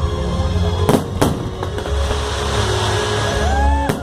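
Fireworks going off: two sharp bangs about a second in, then a fizzing crackle, over loud music with a heavy bass beat.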